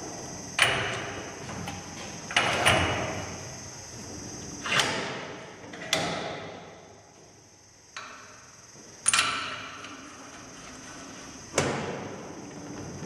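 A series of about seven irregular knocks or clunks, each trailing off over about a second, with a faint steady high whine underneath.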